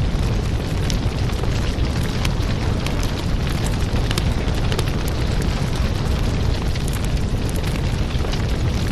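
Firewood burning: a steady low rush of flames with frequent sharp crackles and pops from the logs.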